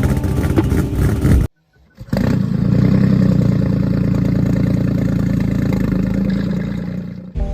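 A car engine cold start: after a short silence, the engine catches about two seconds in and settles into a loud, steady fast idle. Before the silence, the tail of another engine sound cuts off.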